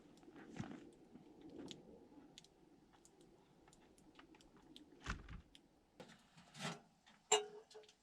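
A scatter of small clicks and crunches, with a dull thud about five seconds in and a sharp knock near the end.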